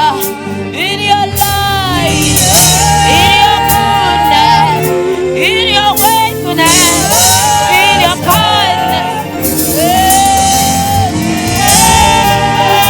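Saxophone playing a gospel worship melody with scooping, bending phrases and long held notes, over a band's backing.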